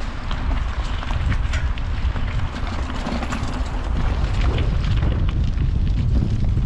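Wind buffeting the microphone in a steady low rumble, with many short crackles over it.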